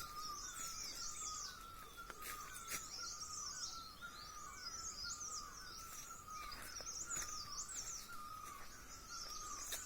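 Wild birds singing: quick, high chirping phrases repeated over and over, over a lower warbling note that runs on beneath them.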